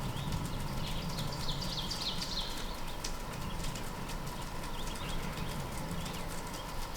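A songbird sings a quick run of short, falling notes about two seconds in, over a steady outdoor background with faint scattered clicks.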